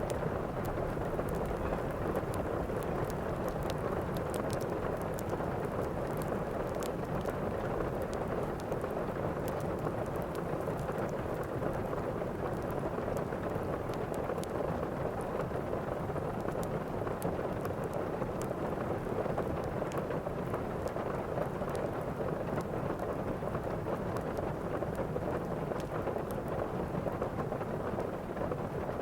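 Steady heavy rain with a low thunder rumble underneath, and scattered sharp crackles from a fireplace.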